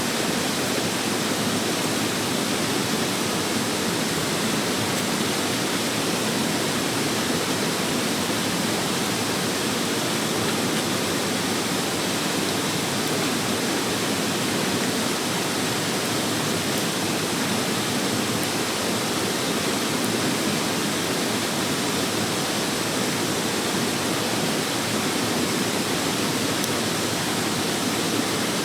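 Mountain stream rushing: a steady, unbroken rush of water.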